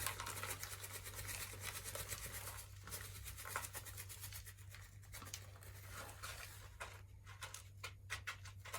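Faint, rapid crackling and rustling of a plastic snack bag and crushed Twisties crumbs being handled and shaken out, over a steady low hum.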